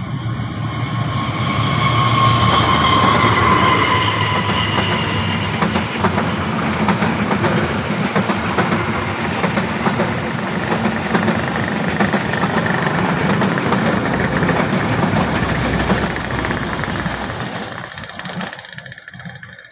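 A passenger train passing on an Indonesian line behind a diesel-electric locomotive. The locomotive's engine goes by with a high whine that drops slightly in pitch over the first few seconds. Then a long run of carriages follows, the wheels clattering over the rails.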